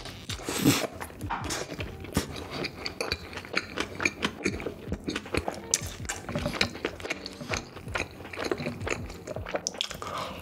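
Close-miked chewing and biting of a cheese-sauce-dipped burger: a dense run of small mouth clicks and smacks, with a louder bite about a second in.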